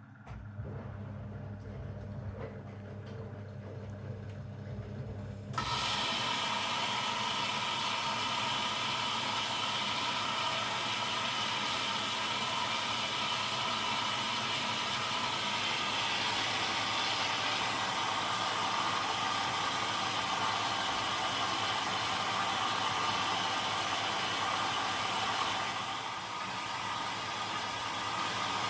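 Zanussi DL22 washing machine running a boil wash: a low hum, then about five seconds in a loud, steady hiss starts suddenly and carries on.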